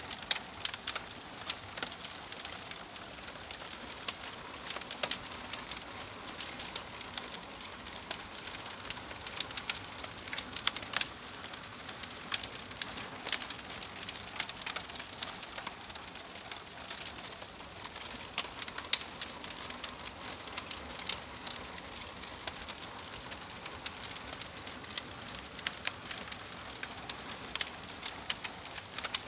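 Fire crackling: a steady hiss broken by frequent, irregular sharp pops and snaps.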